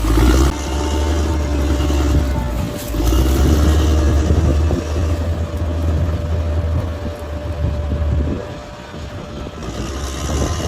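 Large crawler bulldozer's diesel engine running hard with a deep steady drone, easing off about eight seconds in.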